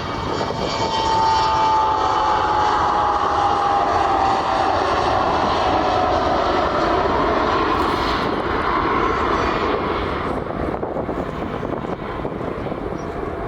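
An airliner's engines passing by, loud, with a whine that falls slowly in pitch during the first half, then fading away near the end.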